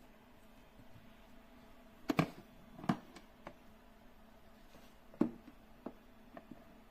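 A few short knocks and clicks from handling hard objects, the loudest a double knock about two seconds in and another just after five seconds, over a faint steady hum.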